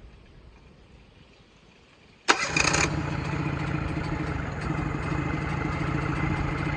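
1970s Yamaha 20A two-stroke outboard being jump-started from its wires: about two seconds in a short, loud burst as the starter turns it over and it fires almost at once, then the engine settles into a steady run.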